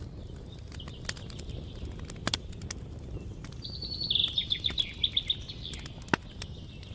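Campfire crackling with scattered sharp pops, and a songbird singing a quick series of repeated high notes about four seconds in.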